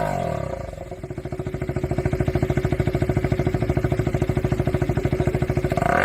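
KTM Duke 250's single-cylinder engine through a TOCE dual-outlet slip-on exhaust. The revs fall away in the first second, then it settles into a steady idle, a fast even pulse from the exhaust. It starts to rev up again right at the end.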